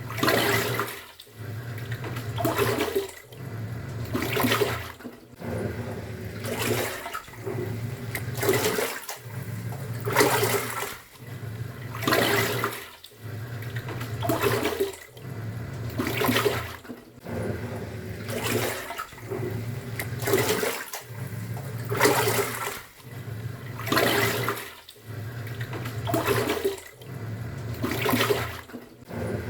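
Top-loading pulsator washing machine in its wash cycle. The motor hum cuts out and restarts about every two seconds as the pulsator reverses, and each stroke churns and sloshes the water in the tub.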